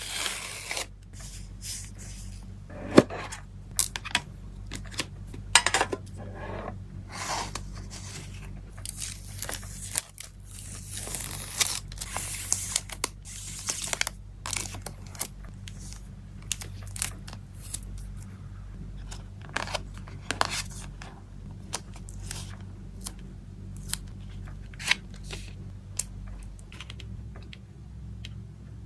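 Close-up packing of photocards: plastic sleeves and wrapping rustling and crinkling, with tearing and many sharp clicks and taps, and a longer stretch of rustling around the middle. A steady low hum runs underneath.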